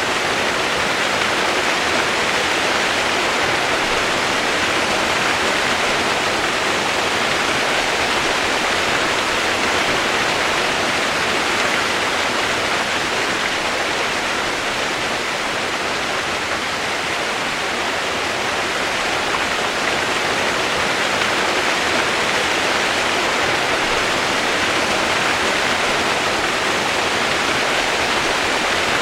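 Steady, even hiss of heavy rain, with no thunder or single drops standing out.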